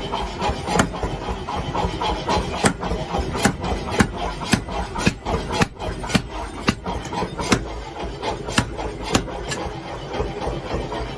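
A series of sharp knocks, irregular at about one or two a second, over a steady background noise.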